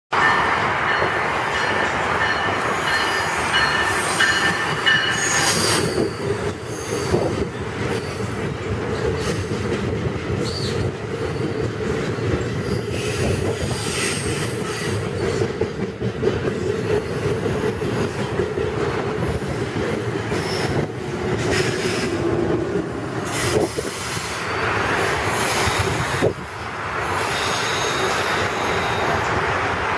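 A New Jersey Transit express train of Bombardier MultiLevel double-deck coaches running through the station at speed, with a steady loud rolling rumble of wheels on rail. A high-pitched metallic squeal is heard during roughly the first six seconds.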